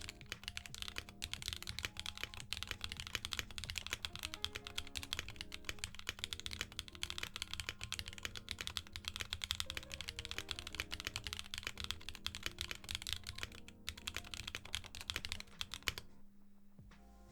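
Fast typing on a mechanical keyboard with Jerzzi Lotus V2 linear switches in a Bakeneko65: a steady stream of key strikes with the clacky, high-pitched bottom-out of the switches' LY-plastic stems, run without factory lube. The typing stops about a second before the end.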